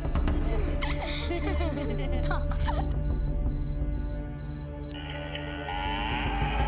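A high chirp pulsing about three times a second, like a cricket, over a low steady hum. The chirping stops about five seconds in.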